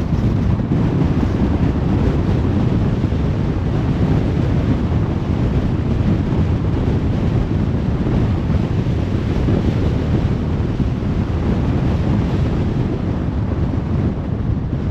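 Car cruising on a motorway: a steady, low rumble of tyre, road and engine noise with no changes.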